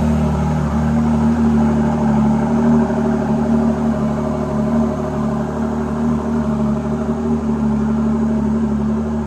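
Ford GT Carbon Series' twin-turbo 3.5-litre V6 idling steadily, just after being jump-started following winter storage.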